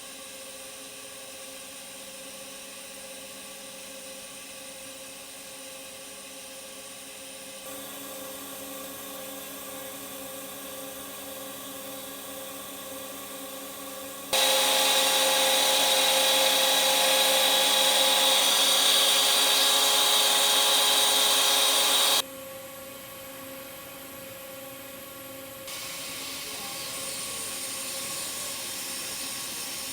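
Industrial welding machinery running with a steady hum, in several abruptly cut stretches. In the middle, for about eight seconds, it is much louder, with a hiss and a high whine.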